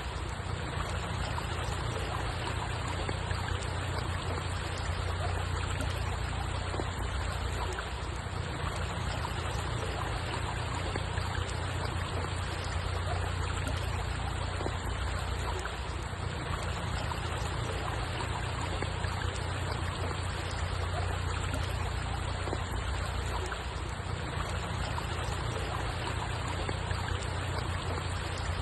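Steady running water with a constant low rumble underneath, unchanging throughout.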